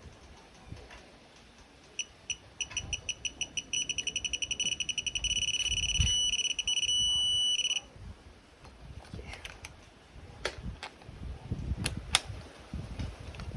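Digital torque wrench beeping as a cylinder head bolt is tightened: short high beeps start about two seconds in and come faster and faster, then merge into a steady tone for a couple of seconds as the set torque is reached, cutting off suddenly about eight seconds in. A few sharp clicks of tool handling follow.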